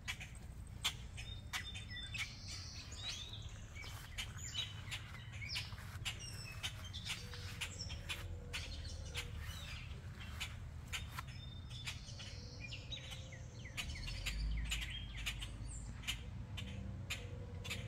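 Birds giving repeated sharp chirping calls: agitated alarm calls, upset at a cat on a leash near their tree. Frequent short clicks and a low rumble run underneath.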